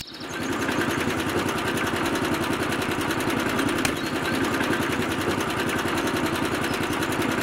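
Small motor running steadily with a fast, even buzz.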